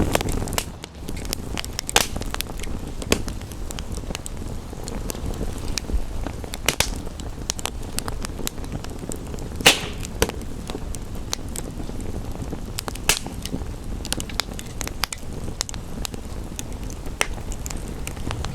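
Wood fire crackling, with scattered sharp pops over a steady low rumble; the loudest pop comes about halfway through.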